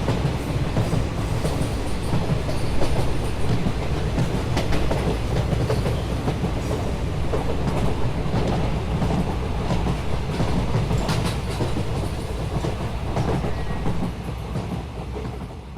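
Train running on the rails, a steady heavy rumble with occasional sharp clacks of wheels over rail joints, easing off near the end.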